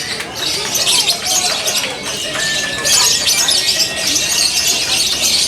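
Lovebirds singing a fast, continuous, high-pitched chattering song, several birds overlapping.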